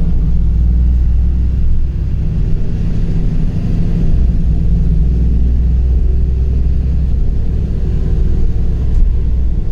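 LiAZ 5292.65 city bus under way, a steady low rumble of engine and road noise, heard from inside the bus.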